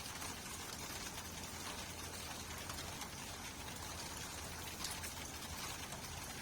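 Steady rainfall: an even hiss of rain with scattered drop ticks over a low steady rumble.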